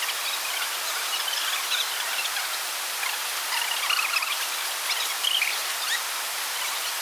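Rainforest ambience: a steady hiss with scattered short chirping calls of insects and other small animals.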